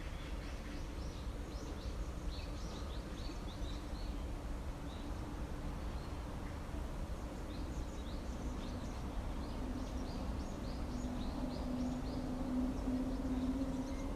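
Small birds chirping in quick runs of short, high notes, in two spells, over a steady low rumble. A low, steady hum grows louder near the end.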